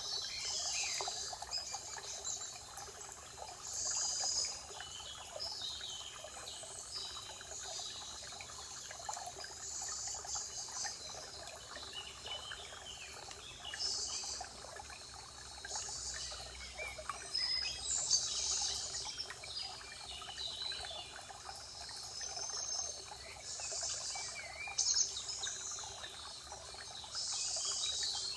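Spring forest ambience: birds singing in short, high phrases every second or two over a steady trickle of running water.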